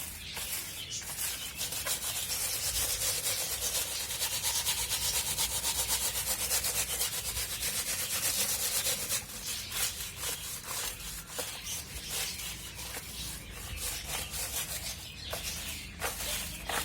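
A plastic bird cage tray being scrubbed clean: fast, continuous rubbing strokes for about the first half, then slower, scattered scrapes and knocks.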